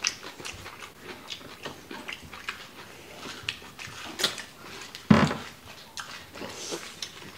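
Close-miked chewing and wet mouth sounds of someone eating a soft rice-paper roll of beef and lettuce, a run of small clicks and smacks. A short, louder sound comes about five seconds in.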